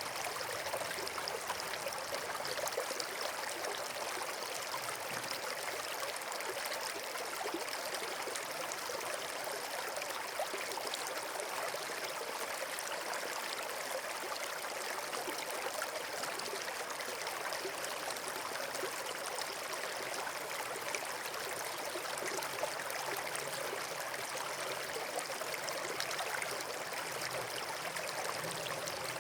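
Running water, a steady even rush like a stream or small cascade, with no pauses or changes.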